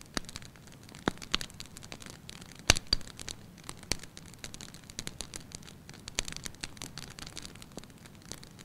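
Wood fire crackling in a fireplace: irregular sharp pops and snaps over a soft hiss, the loudest pop a little under three seconds in.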